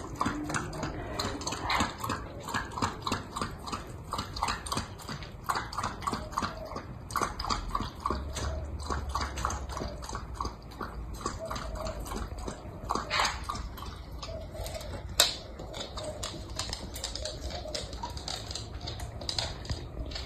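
A dog lapping water from a bowl, a steady run of wet laps at about three a second, with one sharper click partway through.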